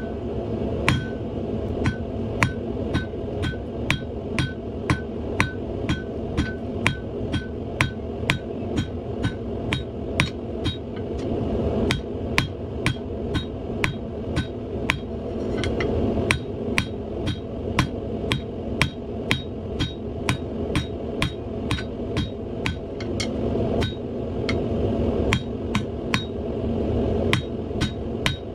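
A hand hammer striking hot steel round bar on an anvil, about two blows a second, each blow ringing, with a few short pauses. Under the blows runs the steady, very loud rush of the gas forge burner.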